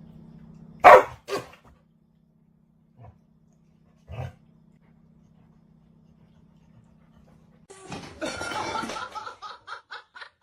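A dog barks twice in quick succession about a second in, over a low steady hum. Near the end the hum stops and a louder, choppy, noisy sound takes over.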